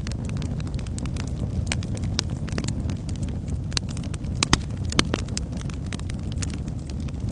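Wood fire burning in a fireplace: a steady low rumble of flames with irregular sharp crackles and pops, the loudest pop about four and a half seconds in.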